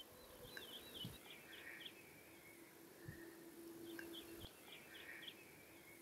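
Faint birdsong in near quiet: two short runs of quick, high chirps, one about half a second in and another around four seconds.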